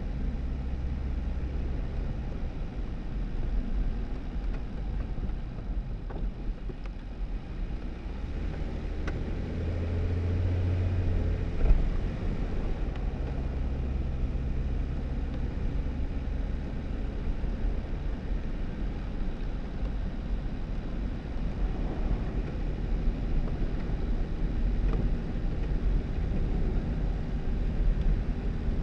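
2018 Jeep Wrangler driving on a snow-covered dirt road: a steady low engine and tyre hum whose pitch shifts slightly with speed, with one short knock about twelve seconds in.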